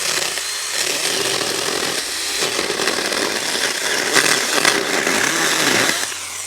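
Saker Mini 4-inch 20-volt cordless electric chainsaw cutting through pine fatwood, its motor pitch wavering up and down as the chain loads and frees in the cut. The sound eases off near the end as the cut finishes.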